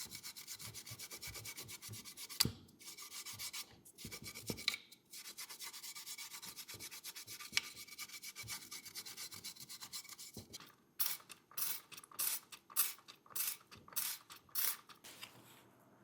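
Fast, even back-and-forth rubbing strokes on a part of a die-cast model car, with a few brief pauses. Near the end they give way to about eight slower, separate strokes.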